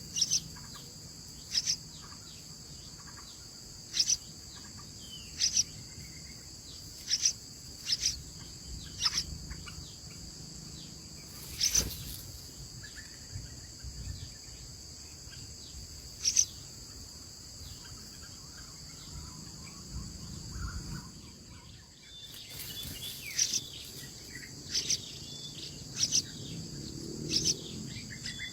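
Steady, high insect chorus in the background, with short, sharp bird calls repeated every second or two over it.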